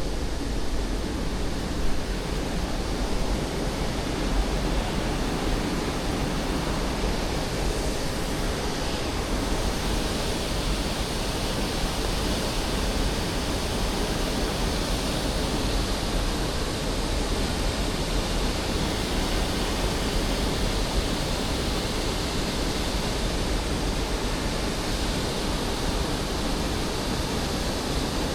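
Steady rush of falling water from a waterfall, an even roar that never lets up.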